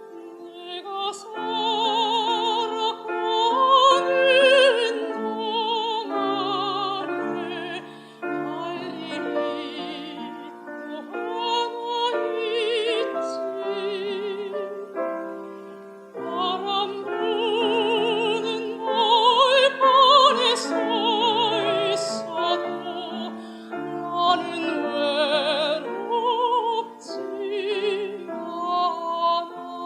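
Classical music: piano accompaniment under a lead melody with wide vibrato, in several phrases with short breaths between them.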